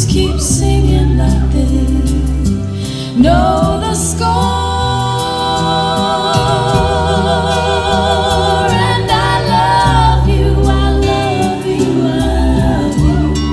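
Recorded song with a female lead singer's vibrato over bass and accompaniment, with a long held note from about four seconds in to about nine.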